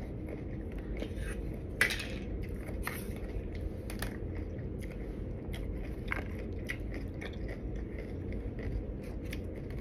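A person chewing a mouthful of taco close to the microphone, with irregular sharp clicks from mouth and food.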